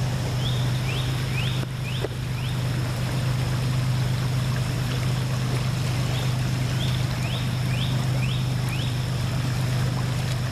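Storm runoff rushing steadily through an overfull roadside ditch, over a steady low hum. Two runs of short rising chirps come through, one near the start and one past the middle.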